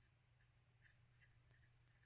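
Near silence: a low steady room hum with a few faint, irregular soft ticks.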